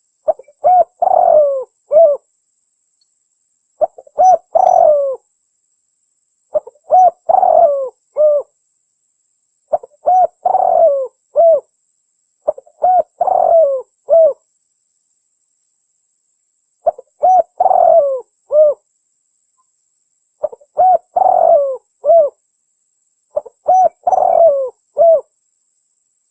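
Terkukur merah dove cooing: a phrase of several rolling, bending coos, repeated eight times with short pauses between. This is the bird's call used as a lure for trapping.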